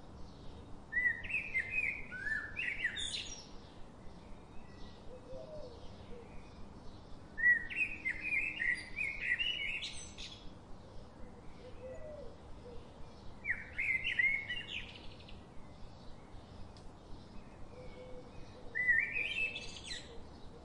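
A songbird singing: four short phrases about six seconds apart, each a quick run of chirps ending in a sharp rising note, over a faint steady hiss.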